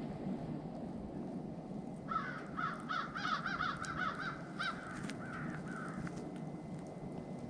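Crows cawing: a quick run of short, harsh caws starting about two seconds in and lasting about four seconds.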